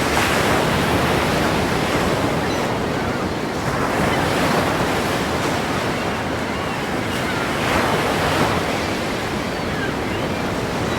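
Ocean surf, waves breaking and washing in a continuous rush that swells louder every few seconds.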